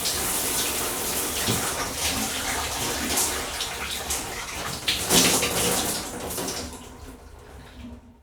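Water running and splashing steadily, with small splashy spikes, fading out near the end.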